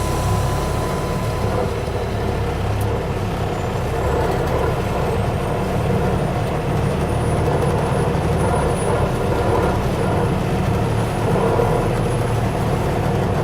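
Semi truck's Cummins ISX diesel engine running at low revs, a steady low rumble.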